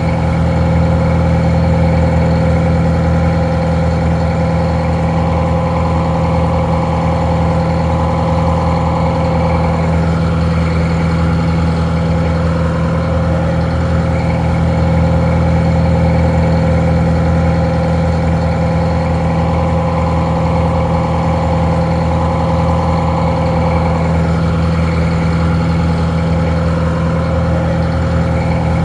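Detroit Diesel 4-71 inline four-cylinder two-stroke diesel engine idling steadily, sounding slightly muffled.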